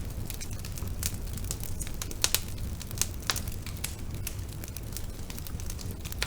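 Bonfire burning: irregular sharp crackles and pops over a steady low rumble of the flames, with a couple of louder pops about two and three seconds in.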